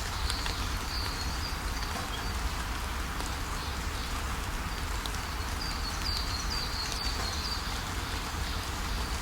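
Steady rain falling with a constant hiss. Songbirds chirp over it, a few calls near the start and a quick run of short chirps about six seconds in.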